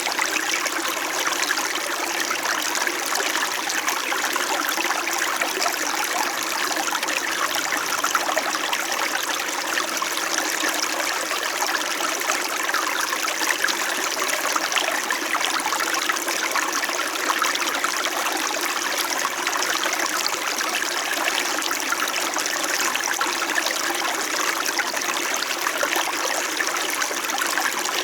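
Small mountain stream flowing steadily over rocks, a continuous babbling and trickling of water.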